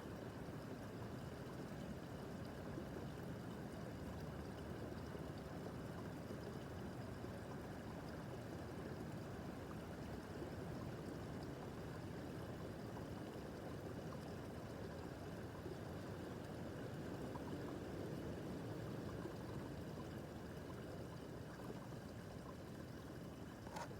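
Small babbling brook, water running and gurgling steadily over stones, with one brief click near the end.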